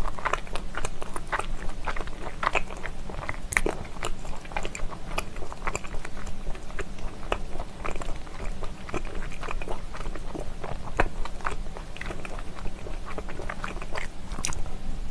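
Close-miked chewing of stir-fried pork skin: a steady run of short mouth clicks and smacks, several a second.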